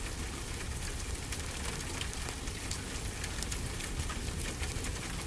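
Steady rainfall mixed with a crackling wood fire: an even hiss of rain with many small sharp crackles and ticks scattered throughout, over a low rumble.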